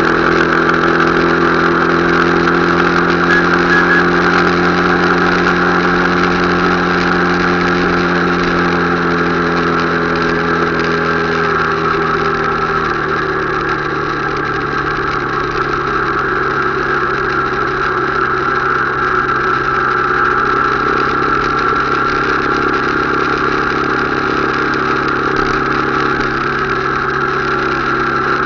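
Motorcycle engine running steadily under way. Its pitch drops about twelve seconds in as it slows, then holds steady at the lower pitch.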